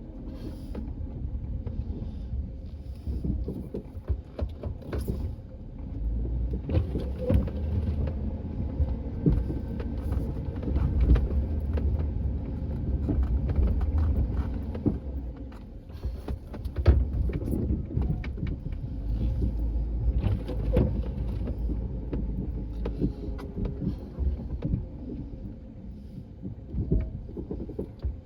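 A vehicle engine running under varying load with a low rumble, rising and falling every few seconds, with scattered knocks and clanks throughout.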